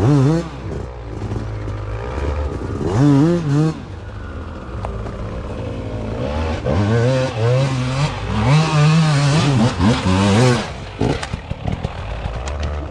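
Dirt bike engine revving hard in repeated surges, its pitch rising and falling, with the longest run of revs in the second half, over a steady low rumble and some clatter.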